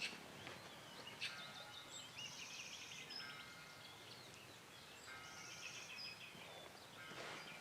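Faint birdsong over a low outdoor hiss: a complex phrase of chirps and short whistled notes, sung about a second in and again about five seconds in. There is a soft click right at the start.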